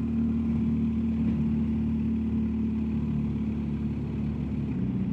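BMW R1250GSA's boxer-twin engine running steadily while riding, heard from on the bike. Its note drops a little near the end.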